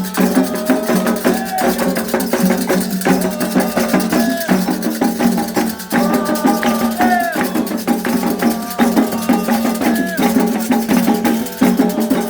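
Afro-Brazilian devotional song for the orixás: voices singing over shaken rattles and struck percussion, with a steady, busy rhythm.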